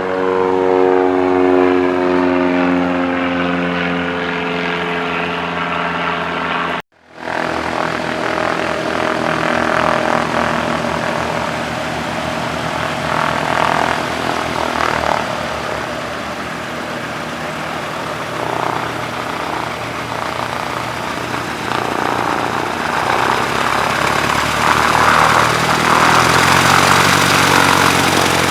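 Propeller airplane engine running, its pitch sliding slightly downward for the first several seconds. The sound cuts out abruptly for an instant about seven seconds in, then a propeller engine carries on steadily and grows louder toward the end.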